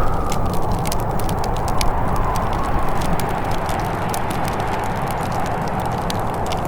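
Wood fire crackling with many small irregular pops over a steady rush of wind, whose hollow whistle slowly sinks in pitch.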